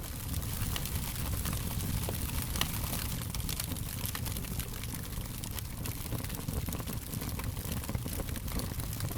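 Wood fire burning with a steady low rumble and frequent sharp crackles and pops scattered throughout.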